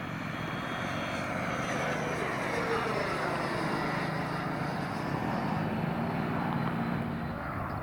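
Twin 90 mm electric ducted fans of a radio-controlled Me 262 jet model whining in flight, the pitch sliding down about two to three seconds in as the model passes by.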